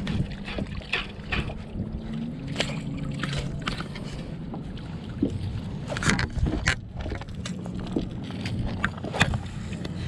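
Scattered knocks and clicks of fishing gear handled aboard a plastic sit-on-top kayak, with water and wind noise, over a low steady hum.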